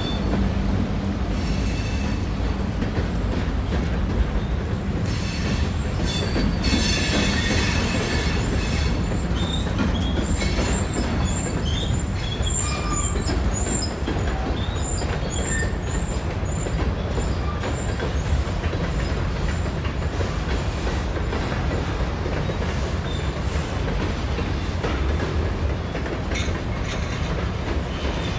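CSX freight train of covered hopper cars rolling past at close range: a steady rumble of steel wheels on rail. A high-pitched squeal from the wheels rises over it about six to nine seconds in.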